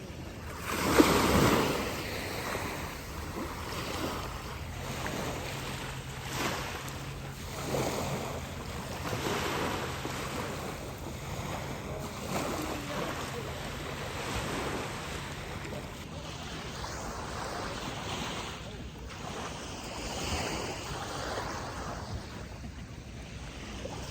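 Ocean surf breaking and washing in, swelling wave after wave, the biggest about a second in, with wind buffeting the microphone. A faint low hum sits underneath for the first two-thirds.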